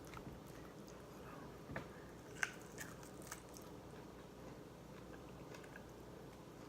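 Quiet chewing of lobster meat, with a few faint short clicks, the sharpest about two and a half seconds in.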